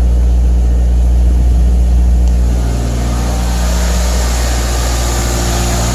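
A 1993–97 Toyota Corolla's four-cylinder engine idling steadily with the heater on, while air is bled out of its cooling system after a radiator replacement. The hum drops a little about halfway through.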